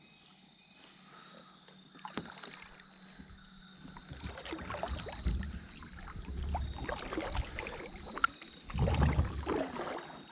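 Kayak sounds of paddling and handling gear on board: irregular knocks, clatter and water sounds that start about two seconds in and grow louder, with a heavier run of low bumps near the end.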